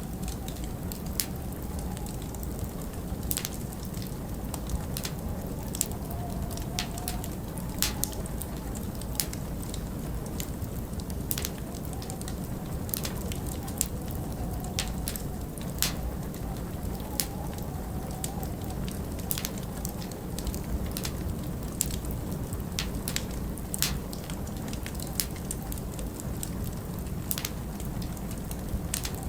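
Wood fire crackling, with irregular sharp snaps and pops several times a second, over a steady low rush of wind that now and then rises into a faint wavering howl.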